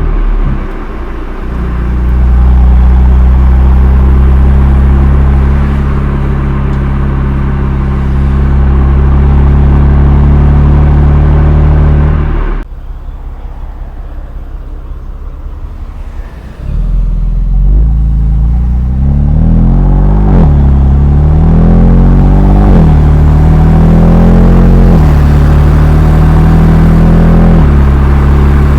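BMW M2 Competition's twin-turbo straight-six running through its stock exhaust, recorded loud enough to clip and distort slightly. It runs steadily for about twelve seconds, then drops suddenly to a quieter, fast-pulsing note for a few seconds, then revs up and down several times before settling steady again.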